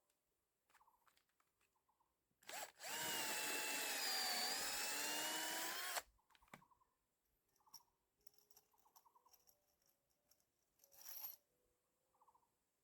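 Power drill running in one burst of about three seconds, after a brief blip, its whine dipping slightly in pitch midway and coming back up before it stops abruptly; light knocks and clicks follow.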